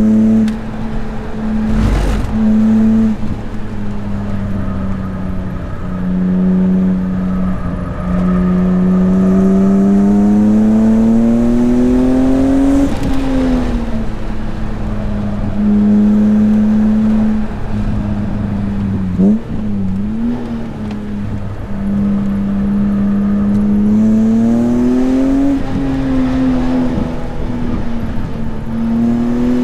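BMW S54 3.2-litre inline-six in an E36 M3 at speed on track, its engine note rising and falling as the car accelerates and lifts through the corners. It drops briefly at gear changes, with one quick dip and recovery about two-thirds through.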